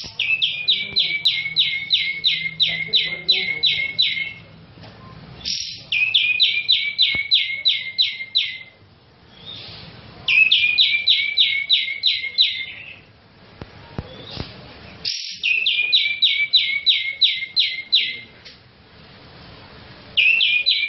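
A cucak jenggot (grey-cheeked bulbul) singing loudly in repeated runs of quick, falling whistled notes, about three or four notes a second. Each run lasts three to four seconds, with short pauses between.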